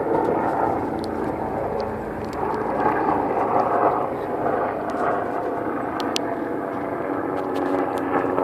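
A steady engine drone that swells and fades slightly, with a couple of sharp clicks about six seconds in.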